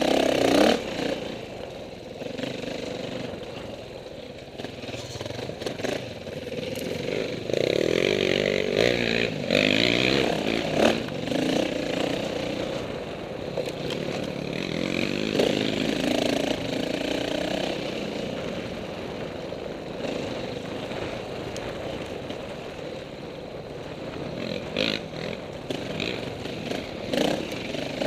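Dirt bike engine running and revving up and down, its pitch rising and falling as the throttle opens and closes, louder for a few seconds at a time.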